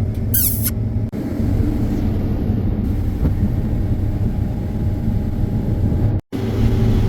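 Combine harvester running steadily while harvesting corn, a constant engine hum; the sound cuts out briefly about a second in and again near the end.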